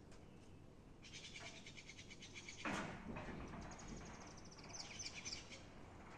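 Birds calling outdoors: fast, high trills and sharp chirps, with one louder call about a third of the way in that slides steeply down in pitch.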